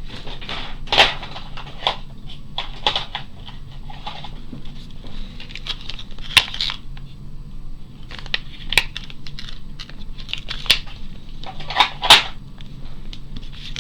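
Rustling handling noise with a scatter of sharp clicks and taps as ink pads are picked through and handled on a craft table. The loudest clicks come about a second in, around the middle, and twice near the end.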